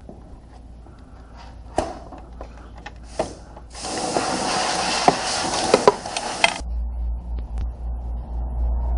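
A hissing spray lasting about three seconds, with scattered clicks and knocks before and during it; a low rumble starts as the spray stops.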